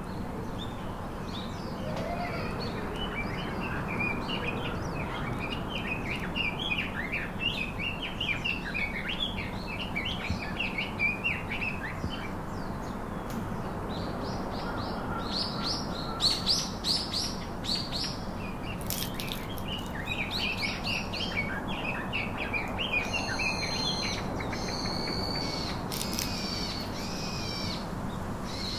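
Parakeets chattering in rapid, busy chirps, with louder and higher calls breaking in during the second half, over a steady low background hum.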